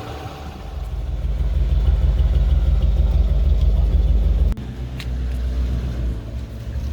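Low rumble of the 1965 Ford F100 pickup on the move, engine and road noise, building about a second in. It drops off suddenly partway through and then carries on at a lower level.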